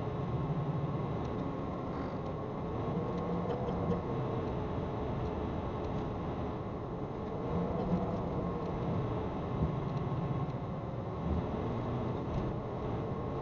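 Semi truck running noise, steady throughout, with a faint wavering hum and a few light clicks.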